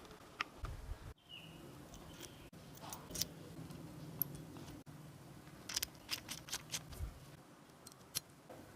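Faint, scattered sharp clicks and light taps, with a quick run of them about six to seven seconds in, over a faint low steady hum.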